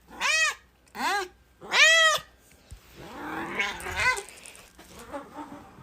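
A cat meowing three times in quick succession, each call a high, arching meow, followed by quieter, rougher sounds.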